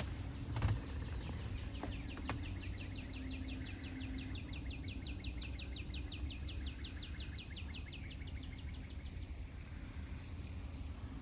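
A bird gives a long, even trill of short down-slurred chirps, about seven a second, fading out after about eight seconds, over a steady low rumble. A couple of sharp knocks come near the start.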